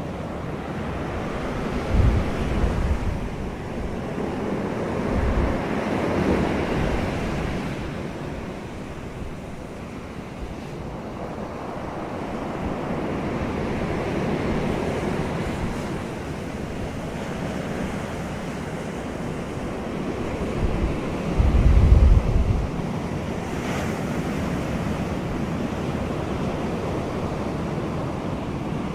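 Wind blowing in swelling gusts, buffeting the microphone with low rumbling thumps a couple of seconds in and, loudest, about three-quarters of the way through.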